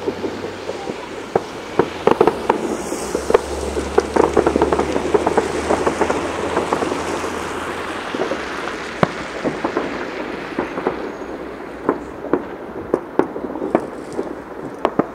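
Fireworks going off across a city: many sharp bangs and crackles over a steady wash of far-off explosions. They are densest in the first half and thin to scattered single reports later.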